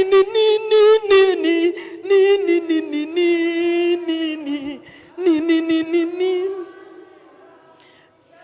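A woman's voice singing unaccompanied, a slow line of long held notes that trails off about a second and a half before the end.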